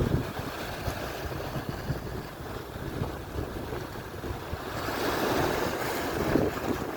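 Atlantic surf: waves breaking and washing up the shore, with wind buffeting the microphone. A wave's wash swells louder about two thirds of the way through, then eases.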